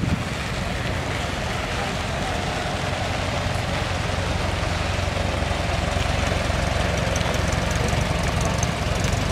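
Volkswagen Karmann Ghia's air-cooled flat-four engine running steadily as the car pulls slowly past and away.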